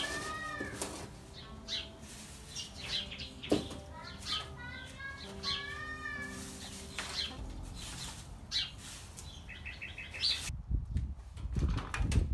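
Birds calling, a string of short whistled and chirping notes that arch up and down, some in quick repeated runs. About ten seconds in the sound changes suddenly to a run of low thuds and knocks as soil is shovelled.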